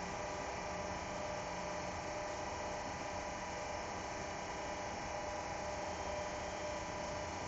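Steady hum of a CNC machining center running without cutting, with a few steady whining tones over an even hiss and no cuts or impacts: the machine is in its program check and dry run.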